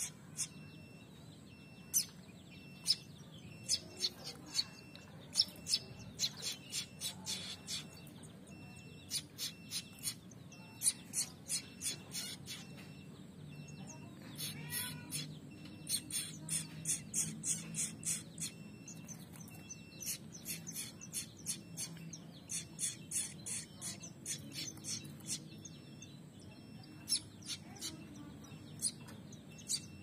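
Young prinia (prenjak) chicks chirping in quick runs of short high calls, the begging calls of fledglings being hand-fed from a stick.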